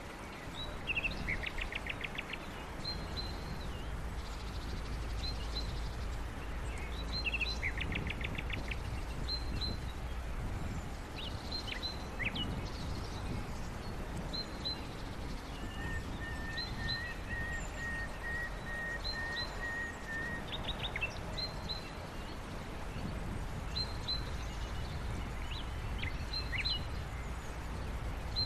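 Small birds chirping again and again, with quick trills about a second in and again around seven seconds, and a longer even trill in the middle, over a steady low rumble.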